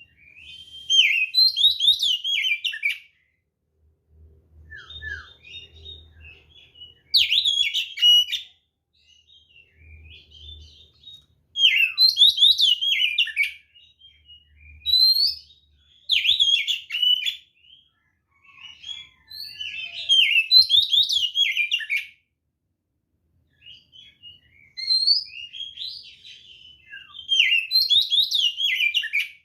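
Oriental magpie-robin (kacer) singing in full song: loud phrases of quick, jagged whistles and sharper notes, each a second or two long, repeated every few seconds with short pauses and softer notes between them.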